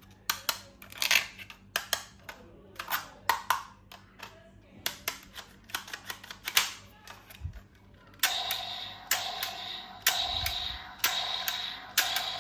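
Irregular clicks, taps and short crackles of plastic toy packaging being handled and opened. About eight seconds in, background music with a steady beat starts under them.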